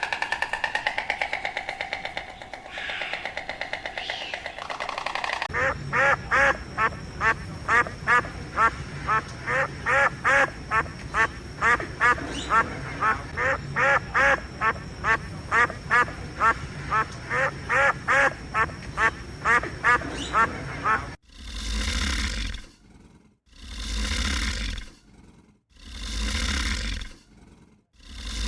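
A duck quacking over and over in a rapid run, about two quacks a second, which fills most of the stretch. It is preceded by a drawn-out animal call lasting a few seconds and followed, in the last few seconds, by a series of long, rough, deep animal blasts, each about a second and a half, with short gaps between.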